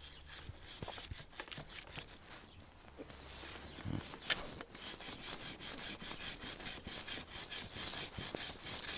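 A brush scrubbing a paraffin-soaked motorcycle chain in quick, repeated back-and-forth strokes. The strokes grow steadier and busier about halfway through.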